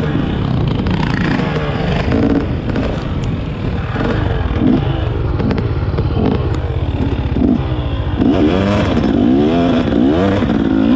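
Dirt bike engine being ridden, its revs climbing and dropping again and again through the throttle, with some clattering and scraping from the bike.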